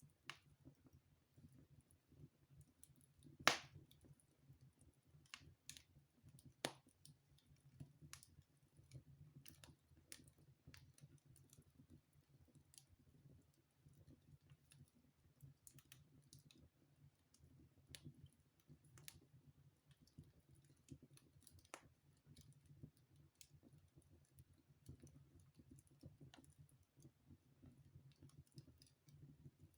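Wood fire in a fireplace crackling: sparse, faint pops and snaps, with a louder pop about three and a half seconds in and another just before seven seconds, over a faint steady low hum.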